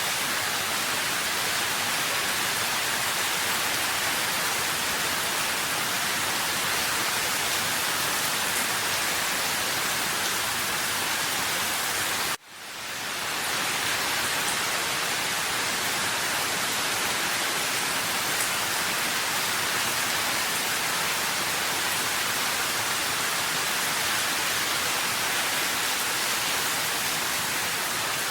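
Steady rain falling, an even hiss with no single drops standing out. About halfway through it cuts out for an instant and fades back in over a second.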